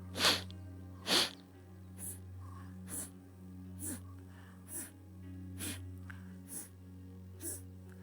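Kapalabhati breathing: short, forceful exhalations snorted out through one nostril at about one a second, nine in all, the first two the loudest. Soft background music with a steady low drone lies under them.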